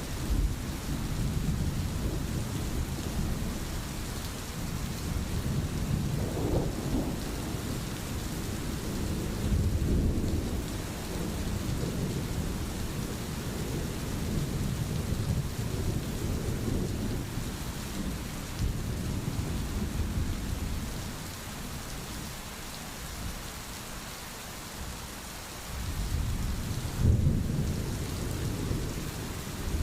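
Steady rain under low, rolling thunder. The rumbling swells a few times, dies down for several seconds past the middle, and builds again near the end.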